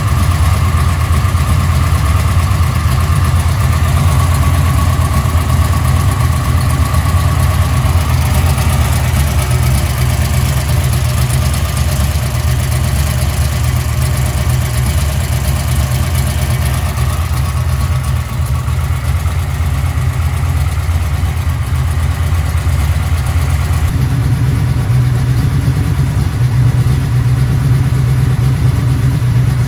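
Chevrolet LT1 383 small-block V8, fuel-injected under a Holley Terminator X, idling steadily at about 1000 rpm on an engine test stand. There is a slight shift in its note about two-thirds of the way through.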